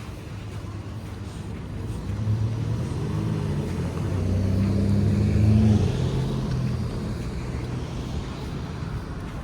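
A motor vehicle driving past, its engine hum building to a peak about six seconds in and then fading.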